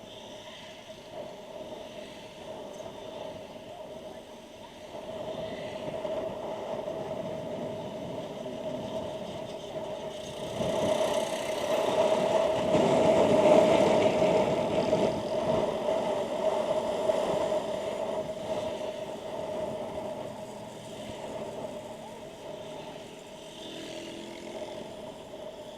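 Motorcycle riding noise, engine and road rush with a steady held tone. It swells louder about ten seconds in, then eases back down some seconds later.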